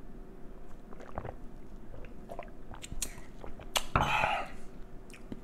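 A person chewing food close to the microphone, with scattered wet mouth clicks and smacks and a louder bite or smack about four seconds in.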